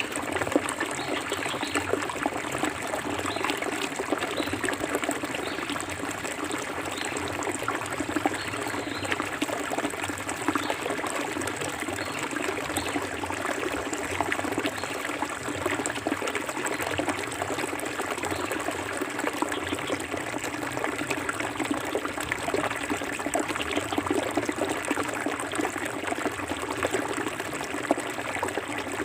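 Forest river water flowing steadily over stones, a continuous trickling and splashing rush.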